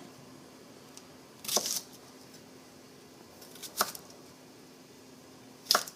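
Kitchen knife cutting the ends off cucumbers, its blade knocking on the cutting board three times about two seconds apart.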